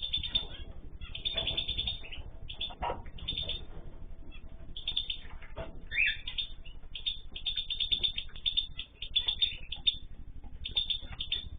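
Many small cage birds chirping in short, overlapping calls almost without pause, with a few faint knocks among them.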